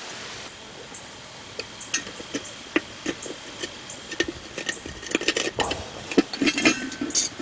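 Small clicks and taps of metal and rubber parts being handled while a snap-in valve stem is test-fitted in a steel tractor wheel rim, sparse at first and busier from about five seconds in.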